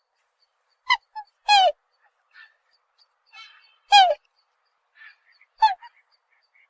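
A swan calling: a series of short honks at uneven intervals, some slightly falling in pitch, with the strongest about a second and a half in and about four seconds in.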